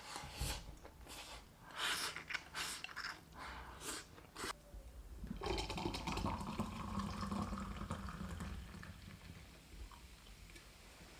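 A person eating, with close-up wet chewing and mouth smacks for the first few seconds. Then comes a steady, watery rushing noise lasting about four seconds, which slowly fades.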